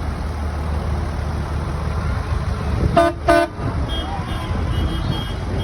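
Two short toots of a vehicle horn about three seconds in, over an engine running steadily.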